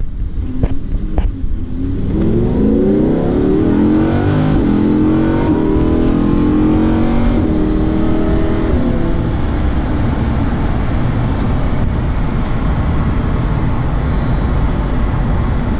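Lamborghini Huracán's V10 heard from inside the cabin under hard acceleration, its note rising in steps through quick upshifts of the automatic gearbox. After about nine seconds the engine note fades into steady wind and road noise at speed.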